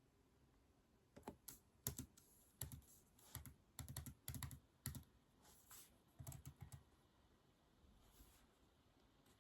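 Typing on a keyboard: quick runs of soft keystrokes for about five seconds, stopping a couple of seconds before the end.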